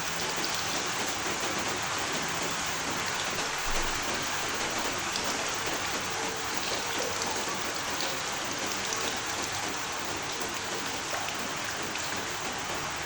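Steady rain falling: an even hiss with scattered sharper drop ticks, and a brief low thump about four seconds in.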